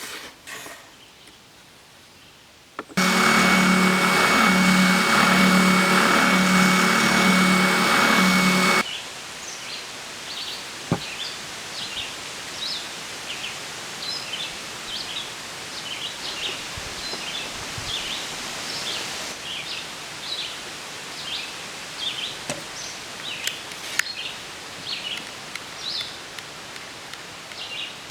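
Birds chirping in many short high calls over a steady outdoor hiss. Before that, a loud steady machine-like sound with a regular low pulse runs for about six seconds and cuts off abruptly.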